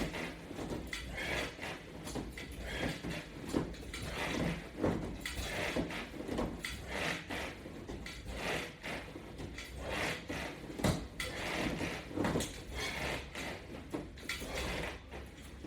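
A person breathing hard in soft, irregular bursts about once a second during a resistance-band core exercise, with small clicks and knocks of the band gear mixed in.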